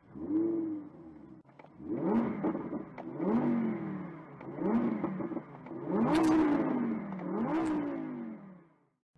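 Car engine revving over and over: about six rises and falls in pitch, the longest about six seconds in, with a couple of sharp cracks near the tops of the later revs. It fades out near the end.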